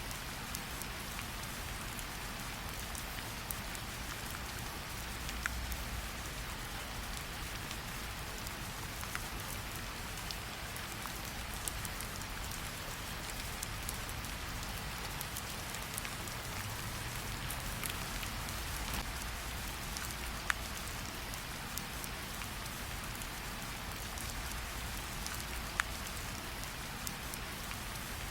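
Steady rain falling, with a few sharp isolated pops of a crackling campfire scattered through it.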